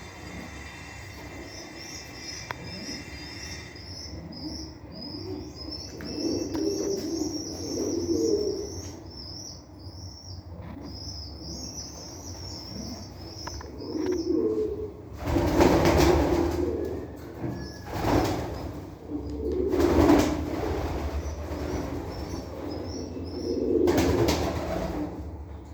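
Domestic pigeons cooing in several low phrases, with loud bursts of wing flapping four times in the second half. High, rapid chirping of small birds runs through the first half.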